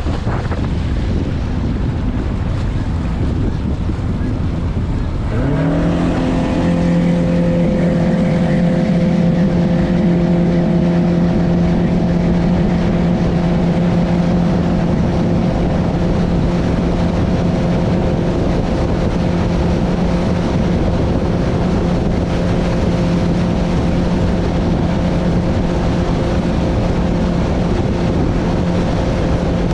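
Boat motor and heavy wind buffeting the microphone. About five seconds in, the motor revs up and then holds a steady drone at speed over the wind noise.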